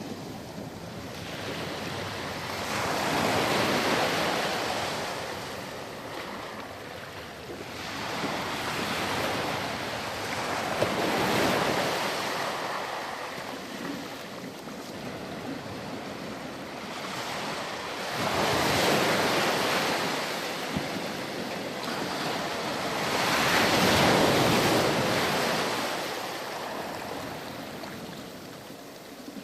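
Ocean surf breaking on a shore and washing back, in slow surges that swell and fade about four times.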